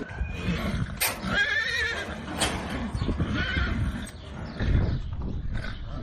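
Horse whinnying: a high, quavering call a little over a second in and a shorter one about halfway, over repeated low hoof thuds.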